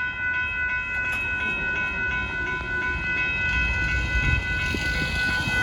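Amtrak Texas Eagle passenger train rolling past, a low rumble with a few wheel clicks that grows heavier about three and a half seconds in, over a steady high ringing tone.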